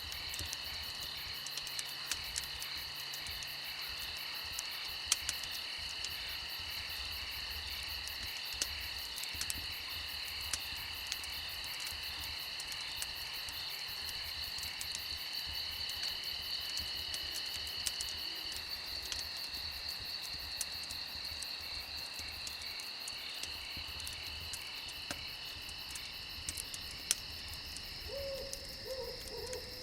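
A dense chorus of crickets and other insects chirping steadily in fast pulses, with sharp pops from a crackling fire here and there. Near the end a few short, low animal calls come in.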